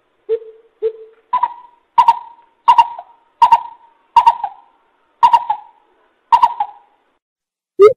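Greater coucal giving its deep hooting call series: nine hoots, the first two lower, the rest a step higher and spaced further apart towards the end. Each hoot starts with a sharp click.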